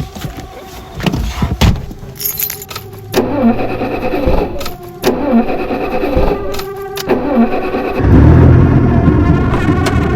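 Car keys rattling, then a car engine cranking in two attempts that do not catch, before it starts and runs loudly about eight seconds in.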